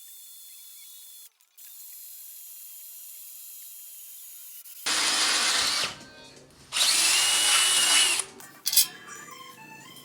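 Power drill boring holes in the steel frame in two bursts of about a second each, the second with a high squeal from the bit. A sharp click follows, then music comes in near the end.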